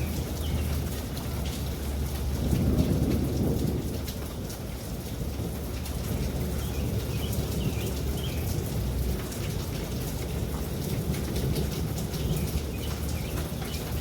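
Steady heavy rain falling, with a low roll of thunder rumbling up about two to three seconds in and fading by about four seconds.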